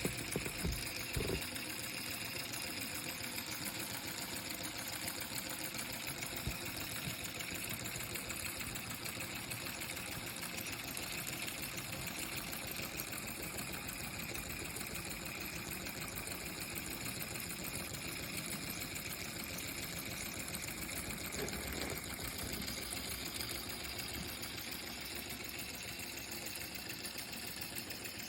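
A small 3D-printed reciprocating air engine running on air from a party balloon: a rapid, steady clatter with a hiss of air.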